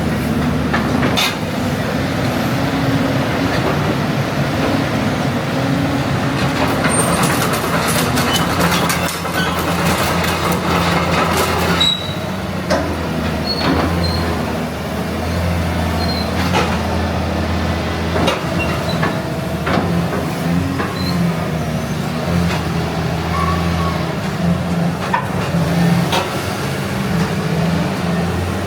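Caterpillar 320D excavator's diesel engine running steadily, with scattered clicks and knocks from the machine, most of them in the middle stretch.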